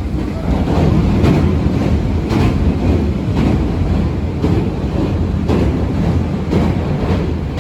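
Abukuma Express 8100 series electric train running, heard from inside the car: a loud, steady rumble with wheels clacking over rail joints about once a second. The rumble swells about half a second in.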